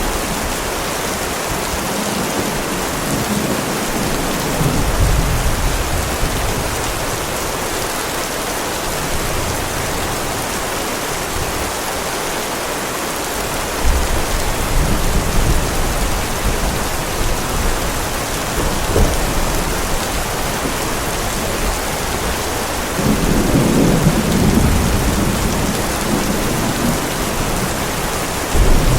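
Heavy rain falling steadily, with rolls of low thunder rumbling several times, the strongest a little before the end.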